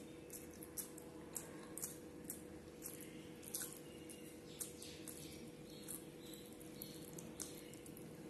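Close-up wet chewing and lip-smacking of someone eating rice and curry by hand: an irregular string of small clicks and squelches, over a steady low background hum.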